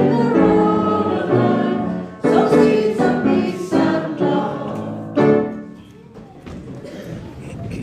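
A group of voices singing a hymn together, with held notes; the singing ends about six seconds in, leaving quieter room noise.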